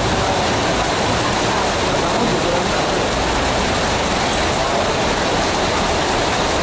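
Heavy tropical downpour pouring steadily onto pavement and parked buses: a dense, even hiss.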